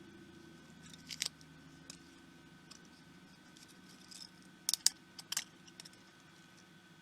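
Small sharp clicks and taps of tools and tiny parts being handled while a pico projector is taken apart. There is a pair of clicks about a second in and a quick cluster of louder clicks around the middle, over a faint steady hum.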